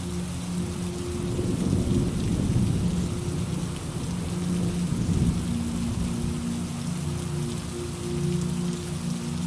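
Steady rain falling, with a low rolling rumble of thunder that builds about a second in and dies away after about five seconds.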